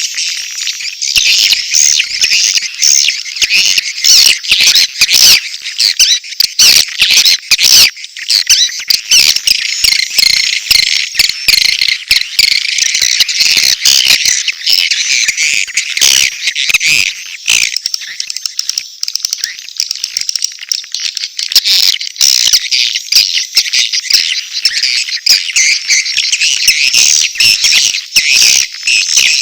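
Swiftlet lure call track: a dense, continuous chatter of mating and chick calls of edible-nest swiftlets, high-pitched twittering mixed with rapid sharp clicks.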